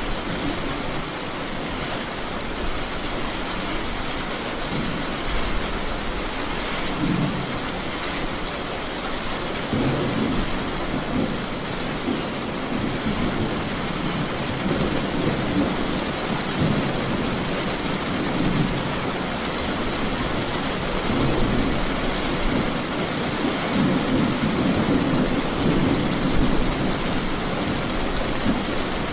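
Steady heavy rain with rolling thunder rumbling underneath, the rumble swelling about a third of the way in and again near the end.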